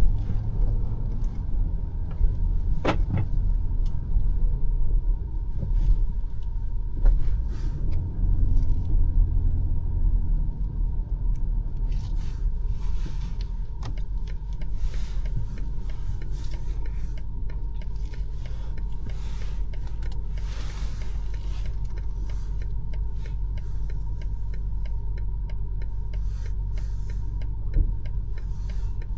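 BMW X5 M50i driving, a steady low rumble of engine and road noise that swells briefly about a third of the way in, with scattered light clicks over it.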